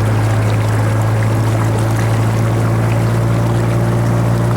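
Amphicar's rear-mounted Triumph Herald four-cylinder engine running at a steady drone as the amphibious car cruises on the water, with water noise along the hull.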